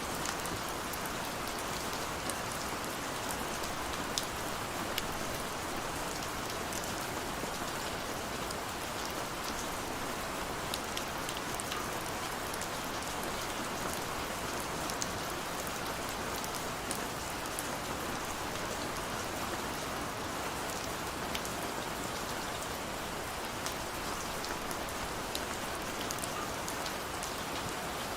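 Steady rain falling on hard surfaces, an even hiss with scattered sharp drop ticks.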